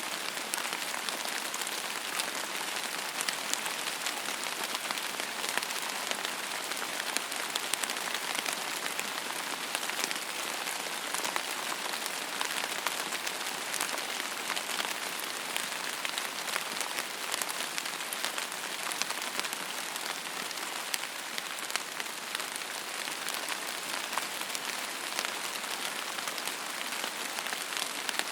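Steady rain falling on a surface, a constant patter with many small individual drop ticks and no let-up.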